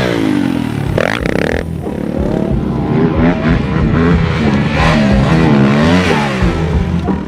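Dirt bike engine revving as it rides, its pitch climbing and dropping again and again with the throttle and gear changes, with a short rush of noise about a second in.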